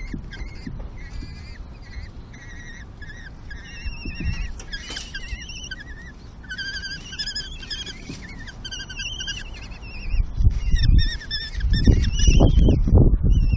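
Common kestrel chicks giving many short, thin, wavering begging calls at feeding time. From about ten seconds in, a run of low thumps and rustling, louder than the calls, comes in.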